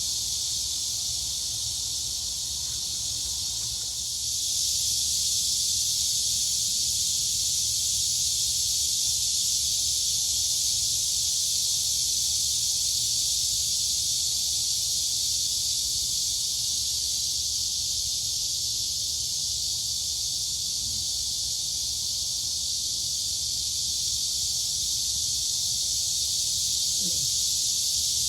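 Dense chorus of crickets and cicadas, a steady high-pitched buzzing hiss that swells slightly about four seconds in.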